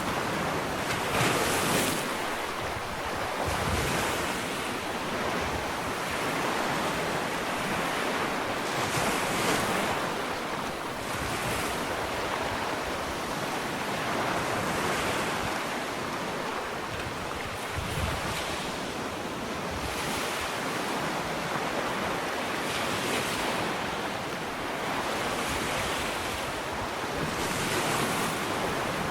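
Ocean waves breaking and washing up a sandy beach, a continuous surf hiss with a fresh surge every two to three seconds.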